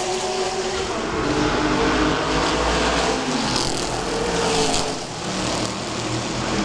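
Historic racing car engines at speed, several engine notes overlapping. Their pitch falls and rises as the cars lift, brake and accelerate.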